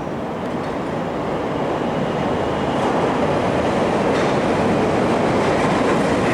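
A CTA subway train rumbling along the rails in the station tunnel. It grows louder over the first few seconds, then runs at a steady loud level.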